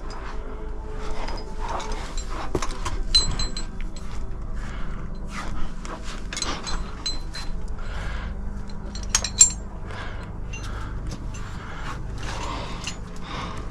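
Metal climbing gear clinking, with scuffs and scrapes against sandstone; one sharp metallic clink about nine seconds in is the loudest sound.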